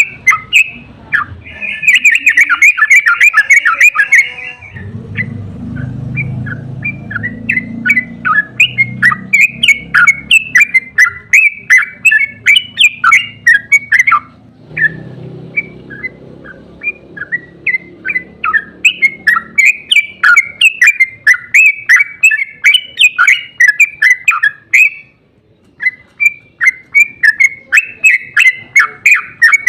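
Yellow-vented bulbul (trucukan) singing in long, rapid chattering runs of sharp chirps, several notes a second, with a denser trill about two seconds in and brief breaks near the middle and about two-thirds through. A low rumble sits underneath at times.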